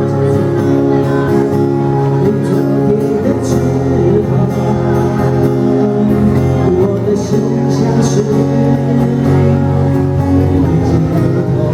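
Live band music: steady, long-held chords over a bass line, with a melody line moving above them.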